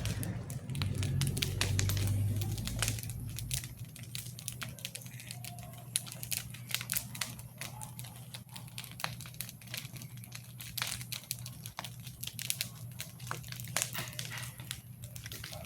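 Wood bonfire crackling and popping with irregular sharp snaps, over a steady low hum.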